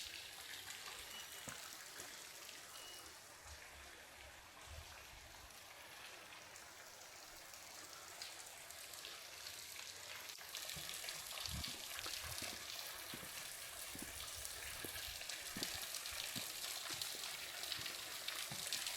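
Water trickling and splashing over rock into a small pool: a steady hiss that gets louder about halfway through, with a few soft low thumps in the second half.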